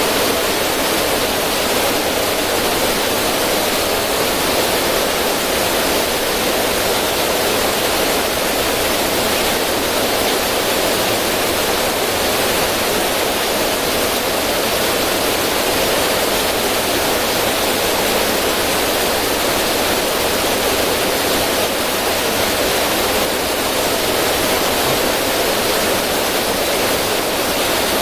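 River current spilling over stones in a small waterfall: a steady, unbroken rush of water.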